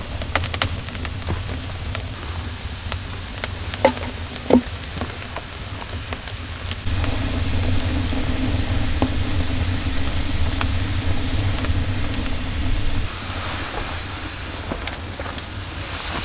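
Wood fire of damp wood crackling, with scattered sharp pops and a couple of louder snaps about four seconds in, over a low rumble. A steadier low drone joins for several seconds in the middle.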